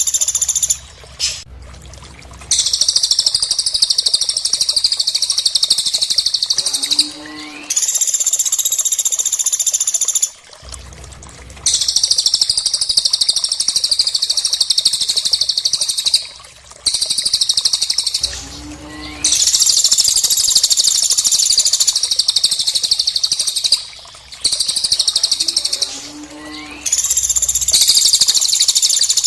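Recorded bird song of a cililin mixed with pelatuk (woodpecker) calls: long, dense, high-pitched trilling phrases lasting several seconds each, separated by short breaks and repeating about every five to six seconds, with a brief lower call in some of the breaks.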